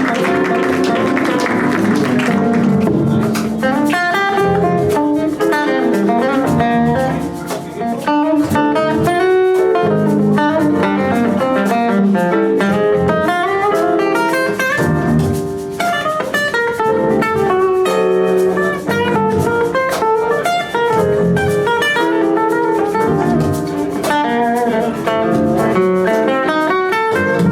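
Live band music: a plucked string instrument plays fast runs of notes over the band.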